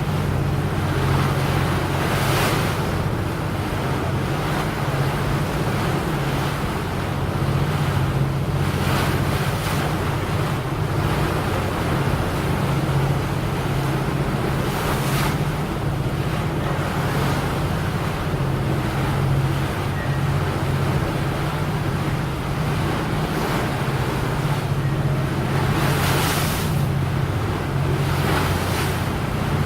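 A boat's engine running steadily, heard under wind on the microphone and rushing water, with several brief hissing surges.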